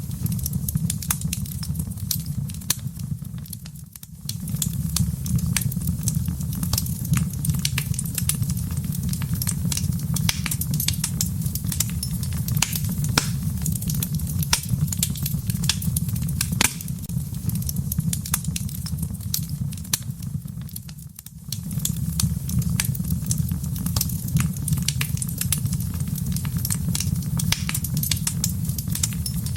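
Wood fire burning in a fireplace: a steady low rumble under many sharp crackles and pops. The sound dips briefly twice.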